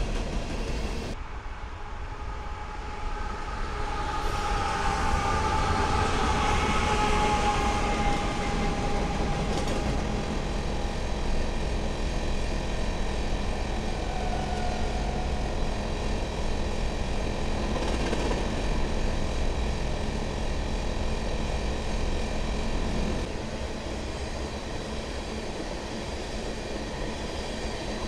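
Freight train of covered hopper cars rolling past, with steady rumble and clatter of wheels on rail. Thin high tones drift in about four seconds in and fade out by about nine seconds.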